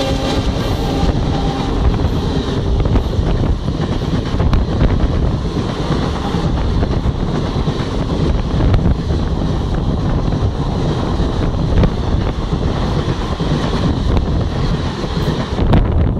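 An Indian Railways passenger train running past close by on the adjacent track. Its coaches make a steady, loud rush of wheel and rail rumble, with wind on the microphone. The locomotive horn's last notes die away in the first couple of seconds, and the rumble falls off as the last coach clears at the very end.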